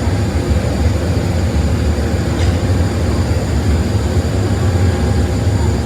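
Workshop machinery running steadily, with a strong low hum under an even noise.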